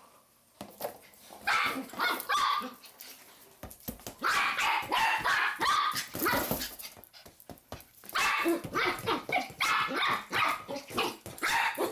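Dog barking in rapid runs of short barks, three bouts with brief pauses between them.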